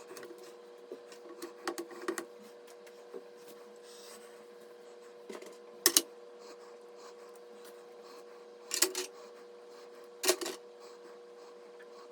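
Computer parts being handled during a PC build: light taps, then a sharp double click about six seconds in and two more knocks near the end, over a steady faint hum.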